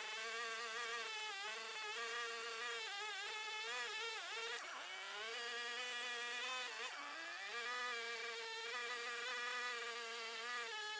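A power tool's electric motor whining as it cuts off the end of an oak log, its pitch sagging briefly under load twice, about four and seven seconds in, then picking back up.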